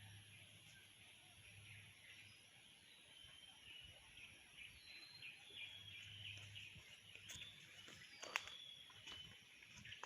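Faint outdoor nature ambience: birds chirping in many short, high notes, with one sharp click about eight seconds in.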